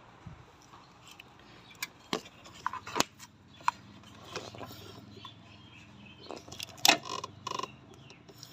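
Scattered clicks, taps and light metallic rattles of small objects being handled, the loudest about seven seconds in.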